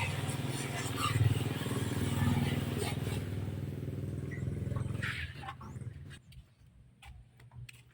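Washing machine motor running with a steady hum, fading out and stopping about six seconds in, followed by a few light clicks.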